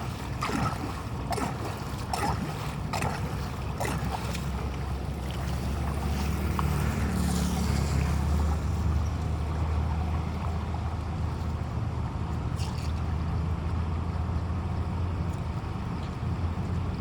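Storm floodwater rushing and churning with a deep, steady rumble, mixed with wind buffeting the microphone. A few sharp knocks or scrapes in the first few seconds.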